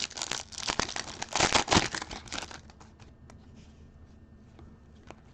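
Foil wrapper of a trading card pack crinkling and tearing for about two and a half seconds, then quieter, with a few scattered clicks.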